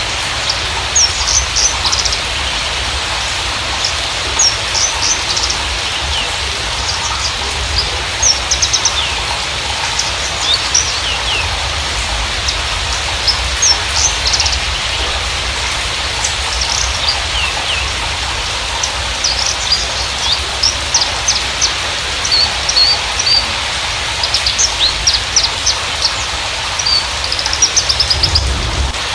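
Horsfield's bushlark of the Javan race parva singing a fast jumble of short chirps, whistles and trills, thicker toward the end, over a steady rain-like hiss.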